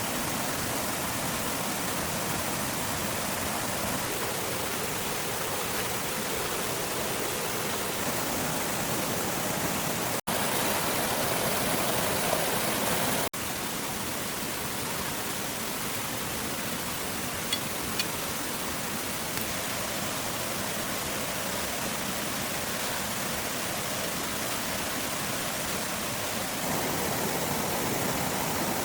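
Steady rushing water noise, even and unbroken. About ten seconds in it cuts abruptly to a slightly louder stretch, then cuts back three seconds later, and a couple of faint ticks come through later on.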